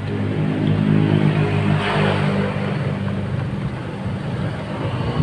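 Mitsubishi Mirage's engine idling with a steady low hum, and a brief rushing noise about two seconds in.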